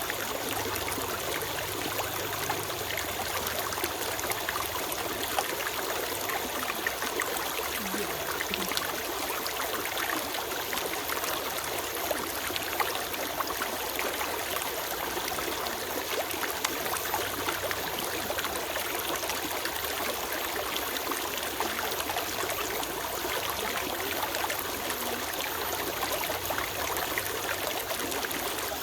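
Forest stream flowing and trickling over stones, a steady splashing with small bright gurgles.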